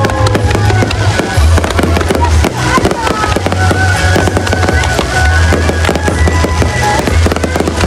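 Fireworks going off in a rapid, continuous string of bangs and crackles, over loud music with a heavy bass.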